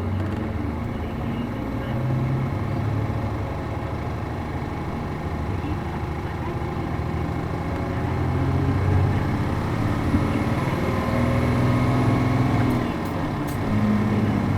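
A city bus's MD92TJ diesel engine pulling the bus along, heard from inside the cabin. The engine note rises as the bus gains speed, with a brief drop shortly before the end as the revs fall and pick up again.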